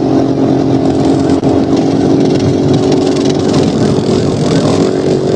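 Police patrol car cabin at highway pursuit speed, around 100 mph: the engine holds steady high revs under heavy wind and tyre noise.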